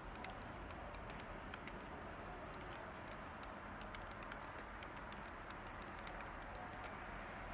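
Light typing on a computer keyboard: irregular, faint key clicks over a steady hiss of background white noise.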